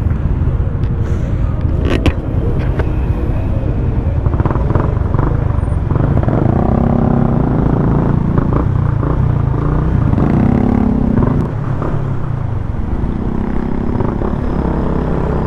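Yamaha Sniper 150 single-cylinder four-stroke engine running as the motorcycle pulls away and rides in traffic, its revs rising and falling through the middle and easing about twelve seconds in. A heavy low rumble of wind on the helmet-mounted camera runs under it.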